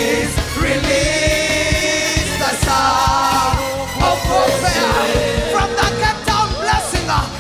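Live worship music: voices sing long held notes over a band with a steady drum beat.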